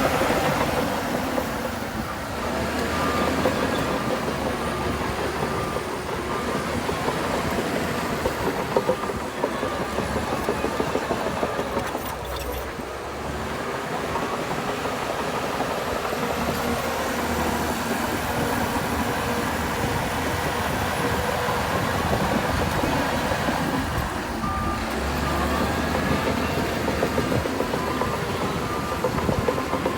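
Heavy diesel earthmoving machinery running under load with steady engine noise and clatter, probably a Shantui bulldozer. A reversing alarm beeps in a regular series for several seconds early on, stops, then starts again near the end.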